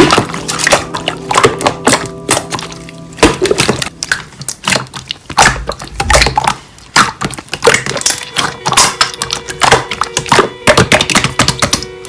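Pop song playing over dense, irregular clicks and pops of slime being pressed and stretched.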